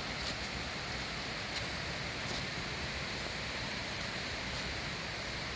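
Waterfall rushing: a steady, even noise of falling water, with a few faint light ticks now and then.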